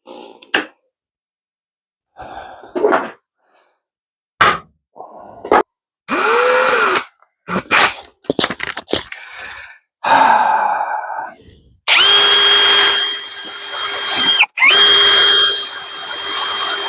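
A few sharp taps of a hammer on a centre punch, then an electric drill starting and stopping in short runs and finally running steadily in two longer runs. The drill is boring into a broken-off screw stub to extract it.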